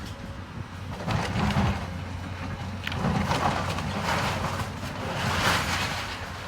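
Demolition machinery's engine running steadily while building debris crashes and rattles down in several bursts, the loudest about a second in, three seconds in and near five and a half seconds.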